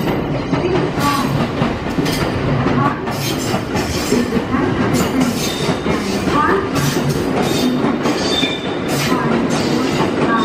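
A limited-express electric train pulling slowly out of the station as an out-of-service run. Its wheels click sharply and repeatedly, at an uneven rhythm, over rail joints and points, above a steady running rumble.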